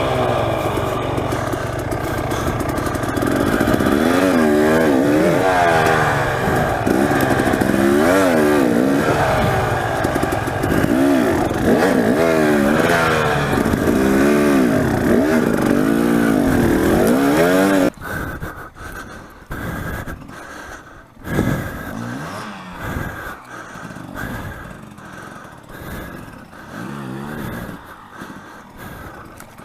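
Dirt bike engine revved over and over, its pitch climbing and dropping about once a second, as the rider works the bike over rough ground. About 18 seconds in the loud engine sound cuts off suddenly, leaving a much quieter engine with occasional weaker revs.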